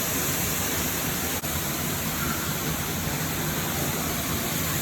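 Steady rushing of falling water from a waterfall, an even noise that holds level throughout.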